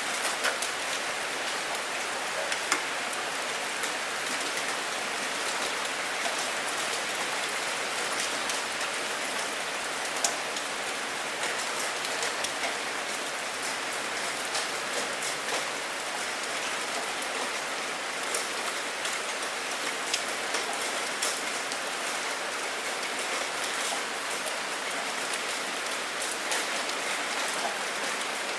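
Steady rain: an even hiss of falling rain, with many sharp drop ticks scattered through it and a few louder splats.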